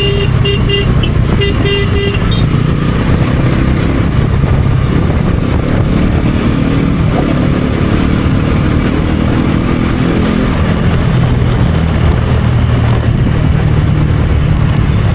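Bajaj Pulsar NS400Z's single-cylinder engine running under way, heard from the rider's position, with its pitch shifting as the throttle changes partway through. A vehicle horn sounds a string of short beeps over the first two seconds.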